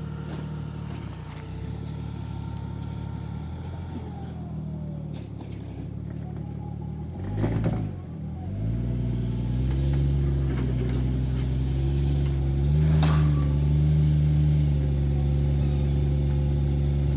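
A vehicle engine running steadily. A higher tone slides down about four seconds in, there is a brief louder whoosh near the middle, and then the engine runs louder and steady for the rest.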